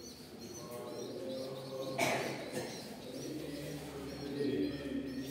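Birds chirping over and over with short rising-and-falling calls, over low cooing tones, with a single knock about two seconds in.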